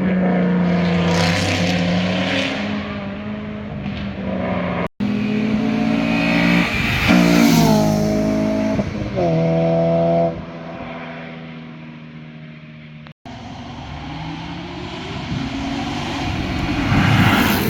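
Sports cars passing at speed with their engines revving hard, pitch climbing and stepping through gear changes. Two abrupt cuts split it into separate passes; the loudest come around the middle and near the end.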